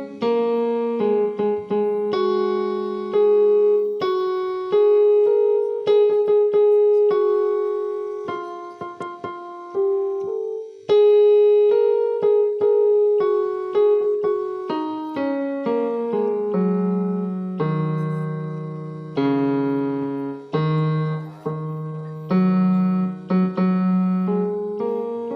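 Background music: a slow solo piano or electric piano piece, single notes struck and left to die away over low bass notes.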